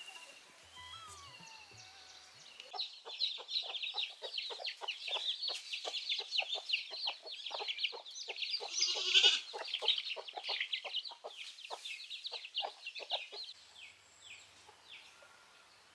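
Birds chattering in a fast run of short calls, several a second, for about ten seconds, with one louder call a little past the middle.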